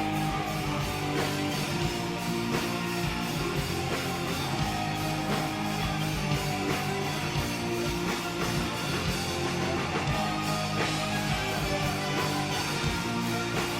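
Live rock band playing an instrumental passage between sung verses: strummed guitars over a steady drum beat.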